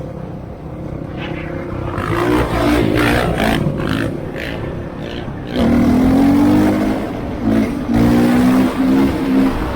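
Dirt bike engine revving hard, its pitch climbing and cutting off again and again as the throttle is opened and closed.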